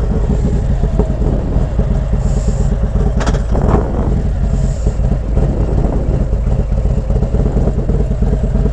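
Harley-Davidson motorcycle's V-twin engine running steadily just after being started, a low rumble, with a couple of brief higher sounds about three to four seconds in.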